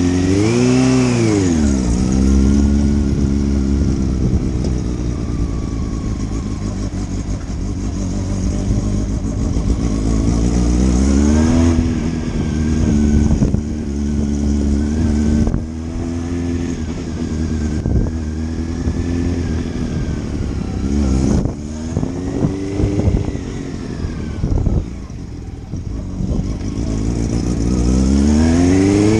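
Motorcycle engine heard from the rider's position: it revs up at the start, settles to a steady cruise, then climbs again through several short gear-change breaks, eases off in pitch and revs up once more near the end.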